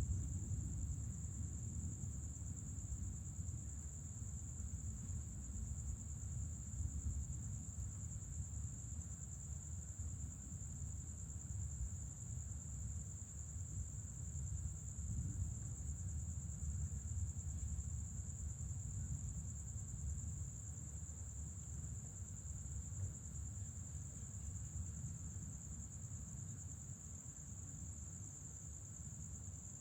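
Night insects calling in a steady, unbroken high-pitched trill, over a continuous low rumble.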